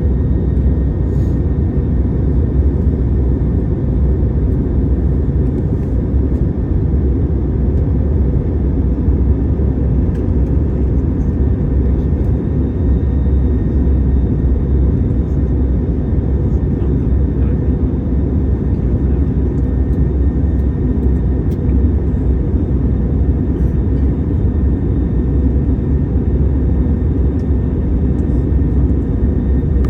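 Jet airliner on approach for landing: a steady, loud rumble of engines and airflow, with a thin, constant high whine above it.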